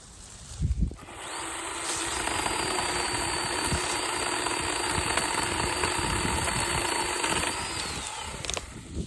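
Chainsaw speeding up about a second in, running steadily at speed with a high whine for several seconds, then winding down near the end.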